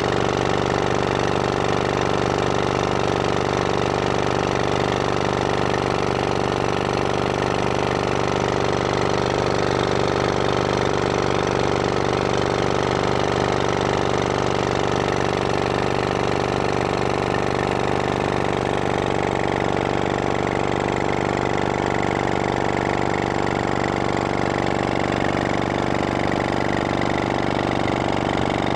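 1924 Johnson Model B 2 hp two-stroke outboard motor running steadily at an even speed.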